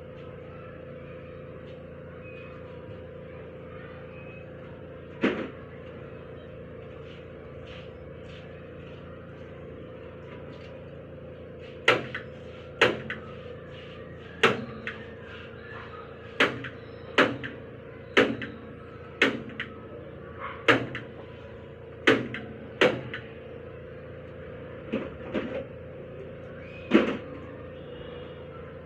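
A hand staple gun being fired about fourteen times, sharp single snaps at uneven intervals, the first alone about five seconds in and the rest coming every second or so from about twelve seconds on, as vinyl seat covering is stapled down. A steady hum runs underneath.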